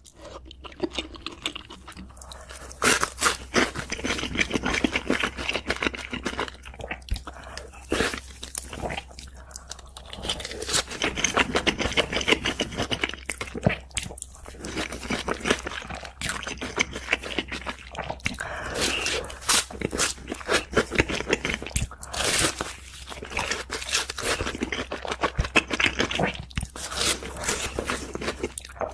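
Close-miked crunchy chewing and biting of food, a dense run of crackling crunches broken by short pauses.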